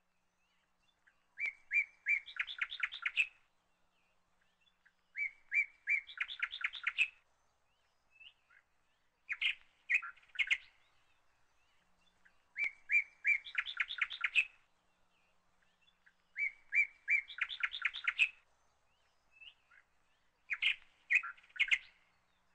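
A bird singing: six similar phrases a few seconds apart, each a few clear notes running into a quick series of higher notes.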